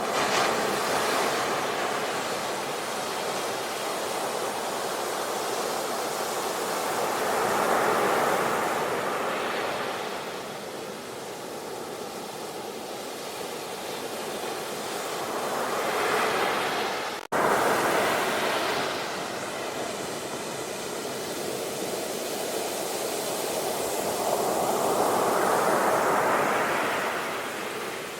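Ocean surf: waves breaking and washing in, each swell rising and falling away every several seconds. The sound cuts out for an instant about seventeen seconds in.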